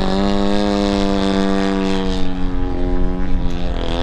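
DA100 100cc twin-cylinder two-stroke gas engine of a giant-scale RC Super Decathlon in flight, a steady propeller drone. Its pitch sags slightly, eases off a little past halfway and picks up again near the end. A low wind rumble runs under it.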